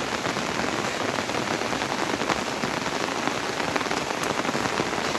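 Steady monsoon rain, a dense patter of drops.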